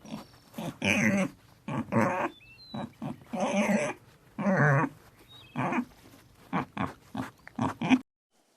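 A dog barking and growling in a series of short, loud barks, with a few faint bird chirps in the background. It stops abruptly about eight seconds in.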